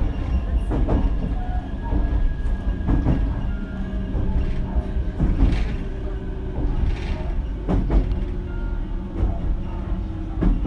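Running noise inside a JR Kyushu BEC819 series electric train car under way: a steady low rumble of wheels on rail, with faint steady tones and irregular sharp clacks scattered through it.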